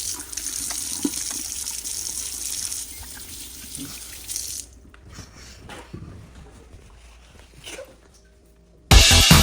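Kitchen tap running into a sink as a steady hiss, shut off about four and a half seconds in; a few light knocks follow, and loud electronic music with a heavy beat starts near the end.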